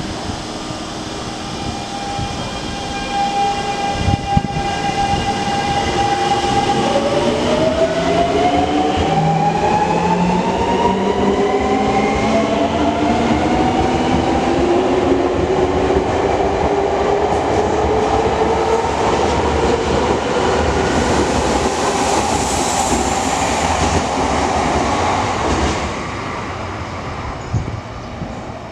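Senboku Rapid Railway 5000 series electric train pulling out of a station. A thump comes about four seconds in. Then the inverter and traction-motor whine climbs steadily in pitch as the train accelerates, over growing wheel-on-rail noise, and the sound drops away sharply near the end as the cars pass.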